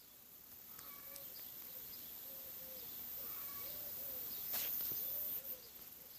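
Birds calling: a run of short, low, arched cooing notes repeated over and over, with a few higher chirps, over a steady high hiss and one sharp click about four and a half seconds in.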